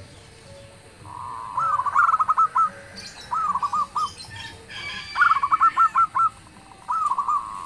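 Zebra dove (local perkutut) singing its staccato cooing song: about four phrases of quick repeated coo notes, some opening with a longer drawn note. Faint higher chirps come in the middle.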